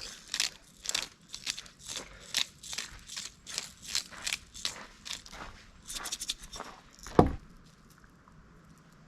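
Footsteps crunching on dry forest ground, about two to three steps a second, followed by one heavy thump about seven seconds in.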